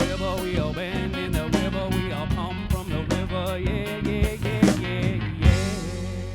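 Live band playing the instrumental close of a song, ending on a final hit about five and a half seconds in, with the last chord ringing out and fading.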